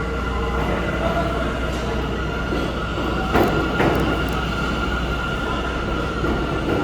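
R179 subway train pulling into the station, with a steady rumble and faint whine of wheels and motors. About halfway through come two sharp clacks in quick succession.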